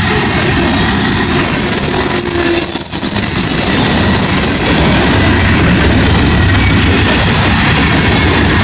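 Freight cars rolling past close by, a steady rumble of wheels on rail with a continuous high-pitched wheel squeal on top that sags slightly in pitch a couple of seconds in.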